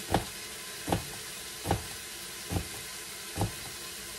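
Bolognese meat sizzling as it browns in an Instant Pot on sauté, with five even knocks a little under a second apart over the sizzle.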